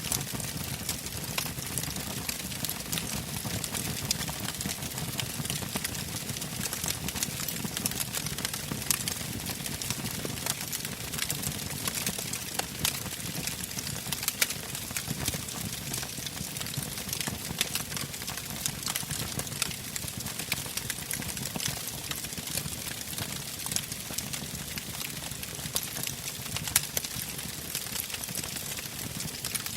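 Wood campfire burning: a steady low rumble of the flames with frequent irregular sharp crackles and pops from the burning logs.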